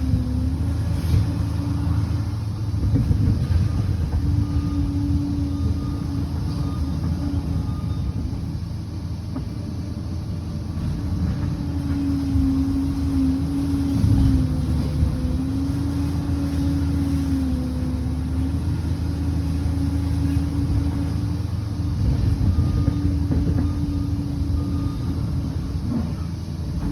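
Liebherr 746 bulldozer's diesel engine working, a steady low rumble with a humming tone that sags and recovers in pitch several times as the load changes.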